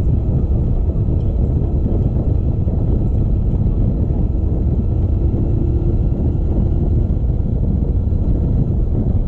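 Motorcycle on the move: a steady engine drone mixed with a dense low rumble of wind on the microphone.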